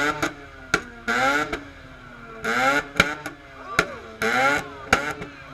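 Modified car engine revved hard in three quick blips, each climbing steeply in pitch and cut off, with sharp exhaust pops cracking between them: unburnt fuel backfiring in the exhaust, the kind that spits flames.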